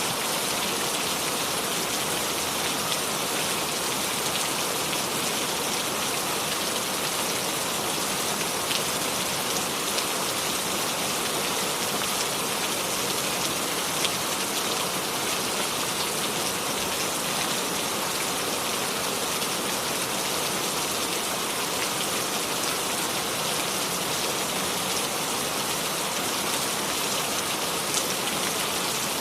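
Steady rain falling on surfaces, an even hiss with scattered individual drop ticks, without thunder.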